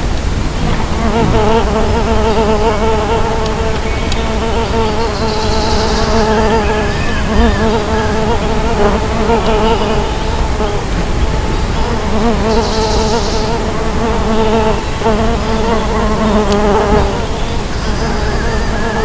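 Mason bees buzzing in flight close by, a steady hum whose pitch wavers continuously.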